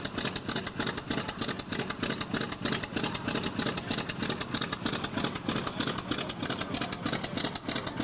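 North American T-28 Trojan's 800 hp radial engine running at idle just after start-up, a steady, rapid pulsing beat of about six pulses a second.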